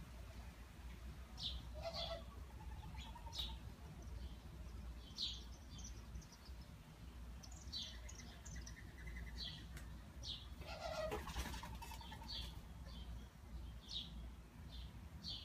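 Small birds chirping in the background: faint, short, high chirps roughly once a second, over a low steady hum.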